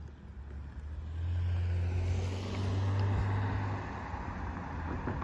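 A car driving past close by, its engine hum and tyre noise swelling for a couple of seconds and then fading.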